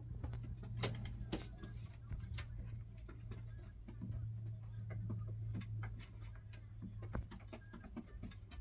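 Domestic pigeons cooing, a low steady murmur, with many short sharp clicks and taps scattered through.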